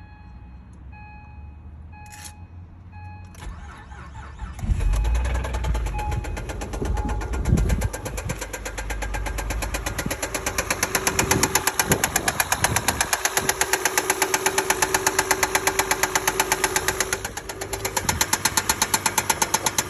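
2005 Acura RL's 3.5-litre V6 starting about four seconds in, after a repeating chime, then idling. From about ten seconds in there is a steady rhythmic knock of roughly four to five beats a second: the engine knocking that is the fault under investigation.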